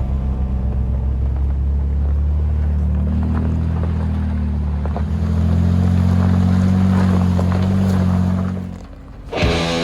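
A vehicle's engine running under load, with wind noise on the microphone. The engine note rises about three seconds in and holds higher. It cuts off shortly before the end, when music starts.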